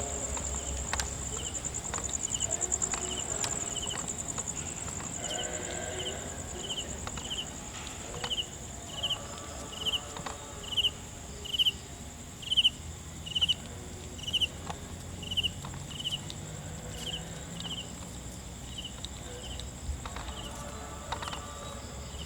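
Insects chirping: a steady high-pitched trill, with a second, lower chirp repeating a little more than once a second and loudest in the middle. Faint voices in the background.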